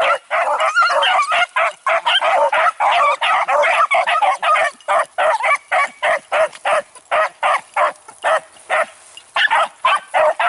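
A pack of beagles baying on a rabbit's scent trail, many short calls overlapping at first and coming as more separate calls from about halfway.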